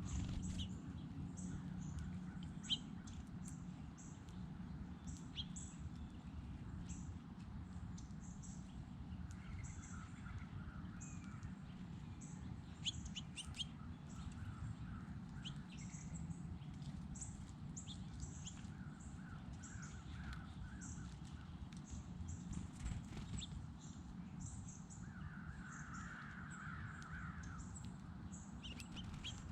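Birds calling: quick, high chirps keep coming throughout, and a few longer, rougher calls come in at intervals, the last near the end the loudest. A steady low rumble of background noise lies under them.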